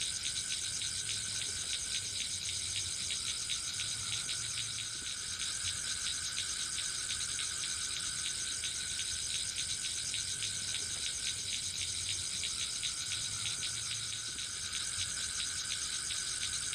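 Forest insect chorus, crickets or similar, trilling steadily in dense, rapid pulses, with a faint low rumble beneath.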